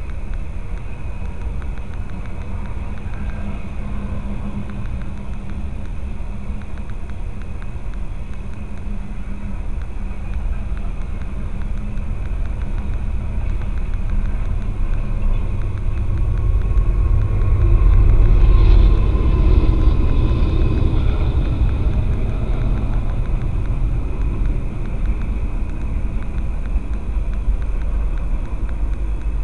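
Norfolk Southern freight train rolling past, a steady rumble of wheels on rail heard from inside a parked car. It swells to its loudest about two-thirds of the way through as a mid-train distributed-power locomotive goes by, then eases back as the cars roll on.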